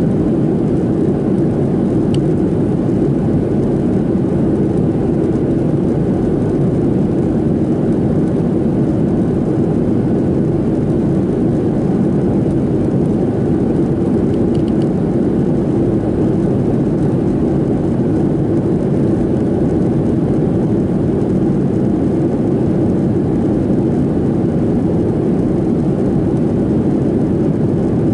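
Steady cabin noise inside a Boeing 737-700 in flight: an even rush of airflow over the fuselage mixed with the drone of its CFM56-7B engines, unchanging throughout.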